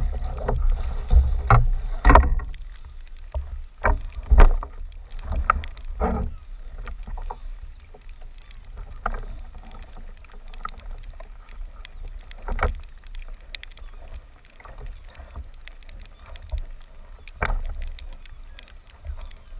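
Sea kayak on the water: water slapping against the hull, with irregular knocks and a constant low rumble underneath.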